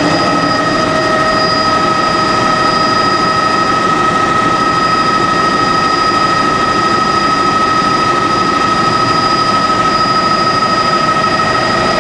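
Helicopter in flight, heard from inside the cabin: loud, steady engine and rotor noise with a constant high whine from the turbine.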